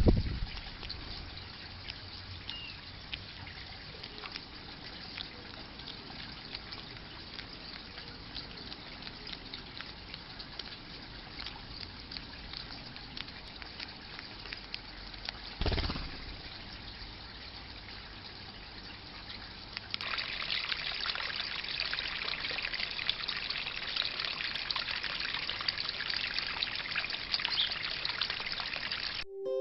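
Steady trickling water, growing brighter and hissier about two-thirds of the way through, with a short bump at the start and another about halfway.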